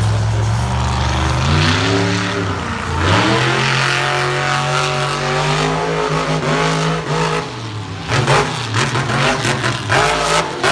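Monster truck engine idling, then revving up about two seconds in and held at high revs, easing off near the middle. It follows with a series of short, sharp bursts of throttle.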